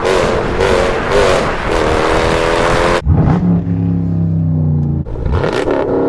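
SRT car's engine revving hard under acceleration, its pitch climbing, then dropping suddenly about three seconds in as it shifts up. It runs lower for a moment and climbs again near the end.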